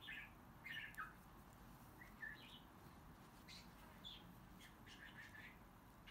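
Near silence, with a small bird chirping faintly now and then: short high chirps about a second in, around two seconds in, and a few more later.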